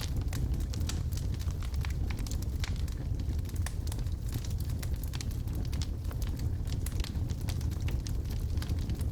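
Wood logs burning in a fireplace, crackling and popping irregularly over a steady low rumble of flame.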